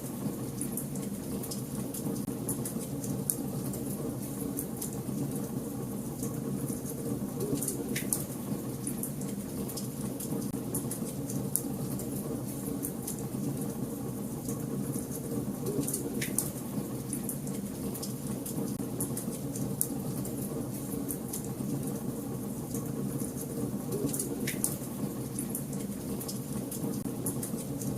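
Wood fire burning in a fireplace: a steady low rush of flame under constant fine crackling, with a few louder, sharper pops spaced several seconds apart.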